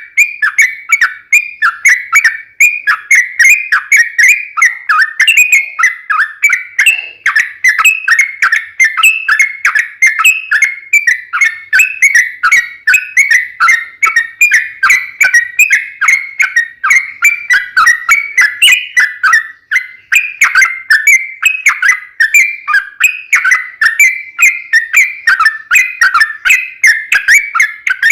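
Yellow-vented bulbul singing without a break: a fast, rolling run of short, bright whistled notes, several a second, going on and on.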